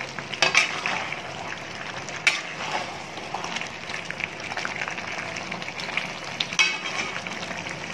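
Thick goat head curry frying in an iron kadai while a metal spatula stirs it, with a few sharp scrapes and knocks of the spatula against the pan. The gravy is being fried down until thick.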